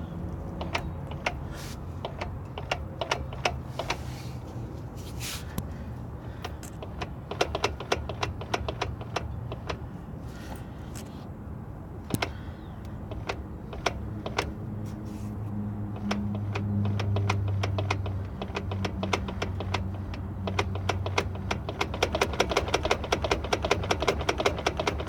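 Clicking from a 2000 Toyota Camry's newly installed left CV axle as the tire is wiggled by hand: sharp, irregular clicks that speed up into a fast run near the end. The owner is unsure whether this play is normal after the axle replacement.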